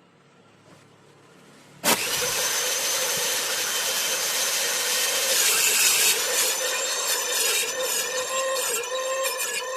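Electric power saw starting abruptly about two seconds in and running steadily while cutting wooden board, with a steady motor tone under the cutting noise.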